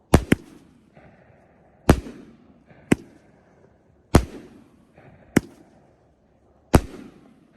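A 500-gram, 30-shot consumer fireworks cake (Raccoon Fireworks 'Till Death Do We Part') firing nishiki kamuro willow shells: seven sharp bangs, roughly one a second, the first two close together. Most bangs trail off in a fading rumble.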